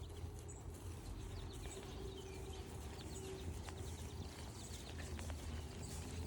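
Footsteps walking along a forest trail, with small birds chirping in short falling notes throughout.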